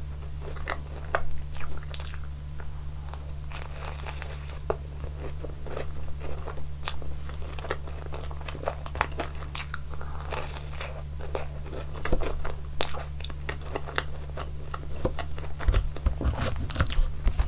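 Close-miked eating: biting and chewing a waffle topped with strawberries and whipped cream, with crunching and many short wet mouth clicks.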